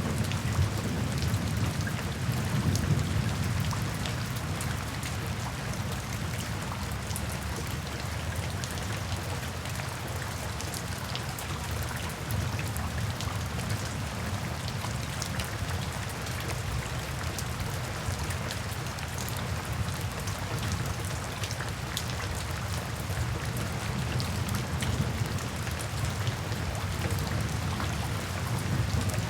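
Steady rain falling, with individual drops ticking throughout. A low rumble of thunder fades away over the first few seconds.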